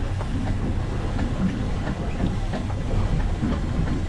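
Outboard motors of an offshore fishing boat running, a steady low drone.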